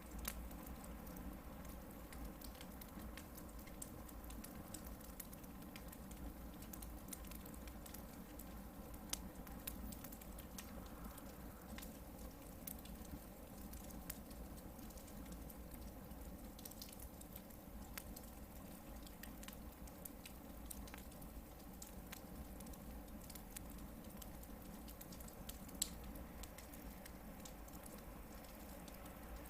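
Hardwood campfire burning with a faint, steady crackle: scattered small sharp pops throughout and one louder pop near the end.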